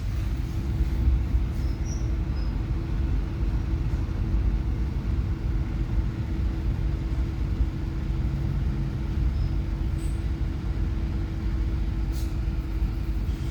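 Passenger train heard from inside a carriage: a steady low rumble with a constant hum.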